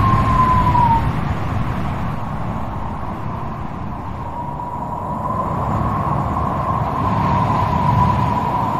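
Strong wind blowing, a steady low rush with a thin whistling howl on one wavering pitch that drops away about a second in and comes back a few seconds later.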